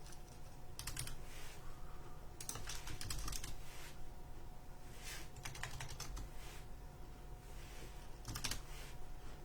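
Typing on a computer keyboard in short irregular bursts of clicks, with pauses between them.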